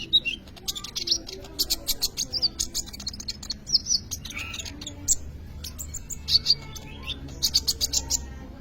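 Caged sunbird (kolibri ninja) singing vigorously: a fast, unbroken stream of high, sharp chips and short twittering trills.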